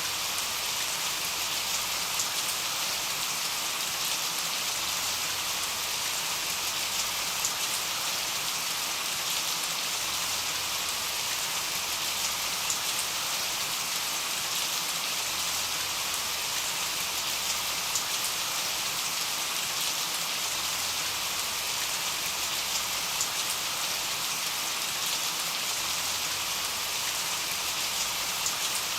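Steady rain: an even, bright hiss of falling drops, with faint sharper drop taps scattered through it.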